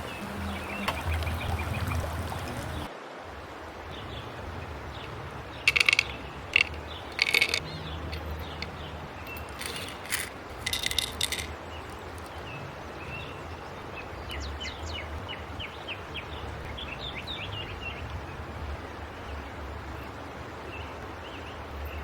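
Outdoor ambience: small birds chirping now and then over a steady low rumble of wind on the microphone. A few loud, short rustling or clattering bursts come about six to seven and ten to eleven seconds in.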